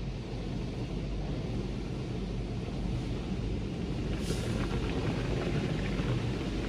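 Sonny's tunnel car wash equipment running as a car passes through: a steady low rumble of machinery and water, with a brief hiss about four seconds in.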